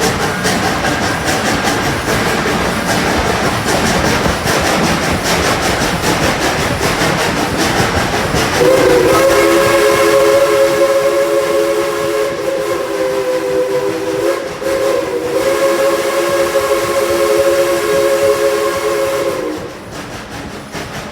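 Narrow-gauge steam train running along the track with a steady rolling clatter; about a third of the way in, the locomotive's steam whistle sounds a chord for roughly ten seconds in two long blasts with a brief break between them, and the level drops after the whistle stops.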